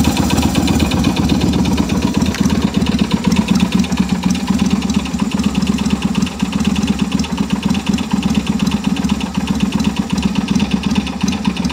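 Yamaha Virago 250's air-cooled V-twin engine idling steadily, with a fast, even ticking over the engine note: the strange noise that the owner wonders may be valves tapping.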